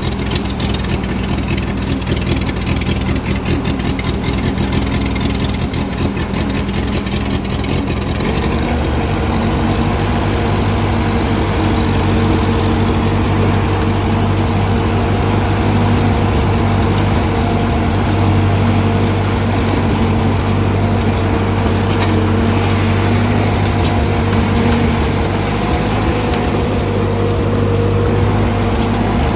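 Ford 2N tractor's four-cylinder flathead engine running while still warming up. The note is rough and uneven at first and settles into a steadier, stronger run about eight seconds in.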